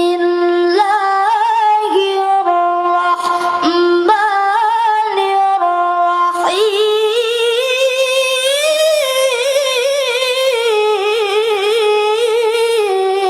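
A high solo voice chanting Quranic recitation in melodic style, unaccompanied: long held notes stepping between a few pitches, then from about halfway a higher line with rapid ornamental turns.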